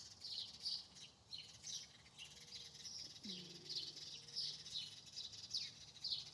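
Birds chirping steadily, a run of short, high, downward-sliding chirps, two or three a second. A faint low hum joins about halfway through.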